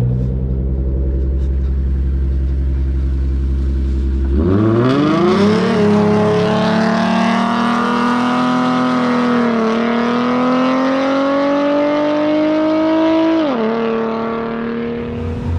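A car engine rumbling steadily at low revs, then launching hard about four seconds in and accelerating at full throttle, its pitch climbing and dropping back at each of three gear shifts. This is a street-race pull.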